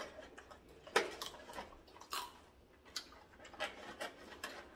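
Mouth noises of someone chewing roast pork belly with its crackling close to the microphone: irregular sharp crunches and clicks, the strongest about a second in.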